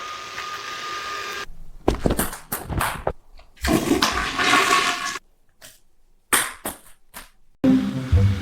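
Rushing water in several short stretches, each cut off abruptly, with music starting near the end.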